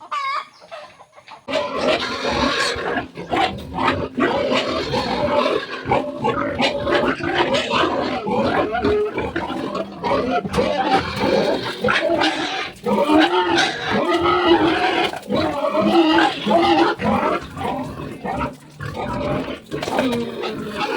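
Several pigs grunting and squealing together, starting about a second and a half in and going on densely.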